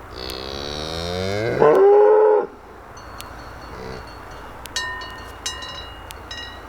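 A cow mooing once, a long call rising in pitch and loudest just before it cuts off about two and a half seconds in. A few short ringing clinks follow later.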